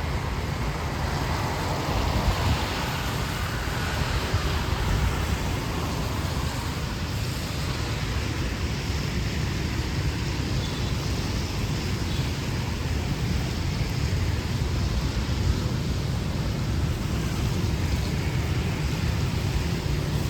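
Steady city street ambience in the rain: a constant wash of traffic and rain hiss over a deep, even low noise, with no single event standing out.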